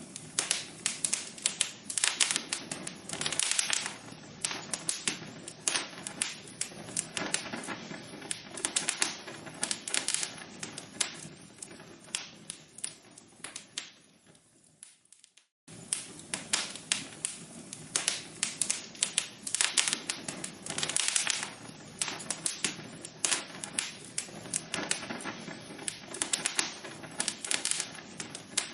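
Burning logs in a fireplace crackling and popping with dense, irregular snaps. About halfway through, the crackling fades away and stops for about a second, then starts again at full strength.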